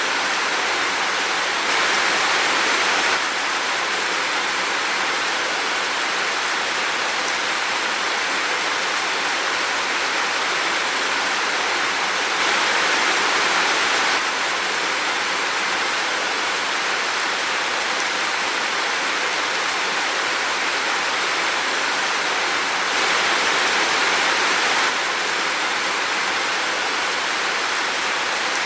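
Heavy rain falling in a steady, dense hiss, swelling a little louder three times, about every ten seconds.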